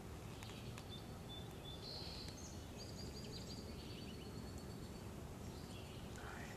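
Faint outdoor background with distant birds calling: a few thin, high notes, the longest held for about two seconds near the middle.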